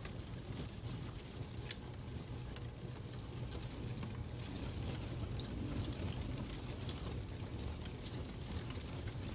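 Fireplace ambience: a fire crackling with scattered sharp pops over a steady low rumble.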